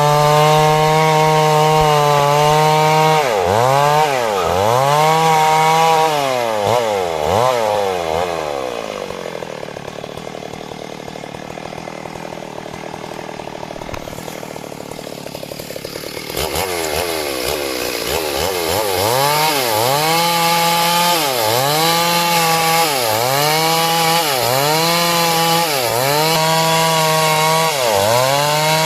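Two-stroke chainsaw cutting wood at high speed, its engine pitch repeatedly dipping and recovering as the chain bites and clears the cut, about once every second or so. It drops quieter and blurrier for several seconds in the middle before picking back up.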